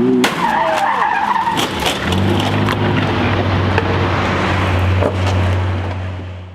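Car on the road: a tyre squeal in the first couple of seconds, then a steady engine drone with a few sharp knocks, fading near the end.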